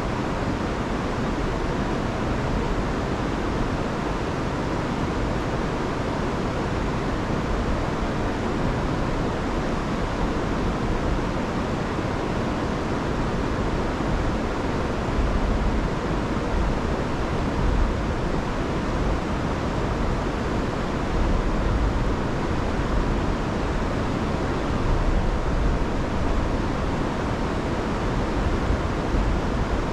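Rain-swollen river rushing and tumbling over falls, a steady loud roar of water with no letup.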